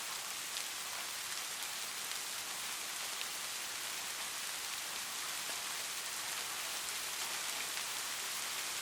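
Light rain falling steadily, a constant hiss with scattered faint drop ticks.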